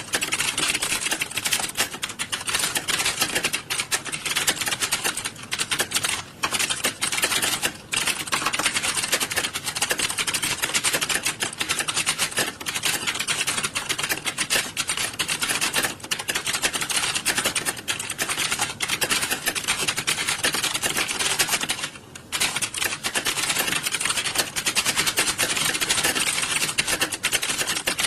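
Many computer keyboards being typed on at once during a typing test: a dense, continuous clatter of key clicks with a few brief lulls.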